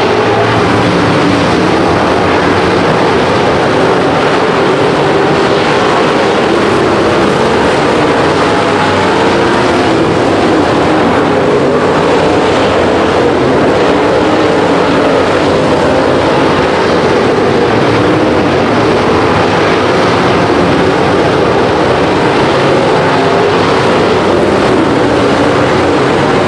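Dirt-track race car engine running hard at racing speed: a loud, unbroken drone whose pitch wavers slightly as the throttle is worked.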